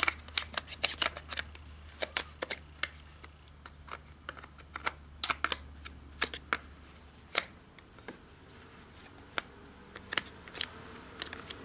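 Irregular scraping and clicking as packed mud and sawdust are picked and brushed out from inside a chainsaw's opened housing, in quick clusters with pauses between.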